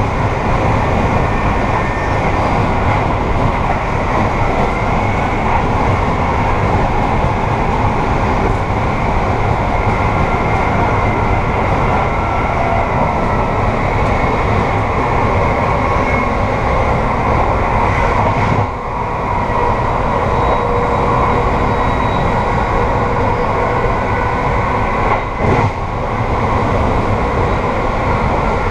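Amtrak passenger train running at speed, heard from its rear vestibule: a steady, loud rumble of wheels on rail and car running noise with faint whining tones. The noise dips briefly twice, a little past halfway and again a few seconds later.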